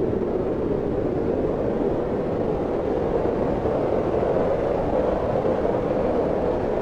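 Steady wind blowing: an even, low rushing with no gusts, breaks or other sounds.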